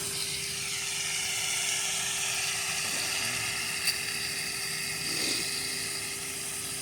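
Steady hum of a distant watercraft engine running on the water, with a slight drop in pitch about a second in.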